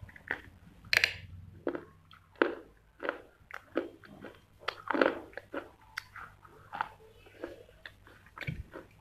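Close-up crunching of a person biting and chewing hard pieces of clay, a sharp crunch about every half second, the loudest about a second in and again around five seconds.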